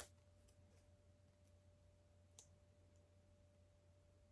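Near silence with a faint steady hum, broken by a few faint clicks of LEGO pieces being handled, the clearest about two and a half seconds in.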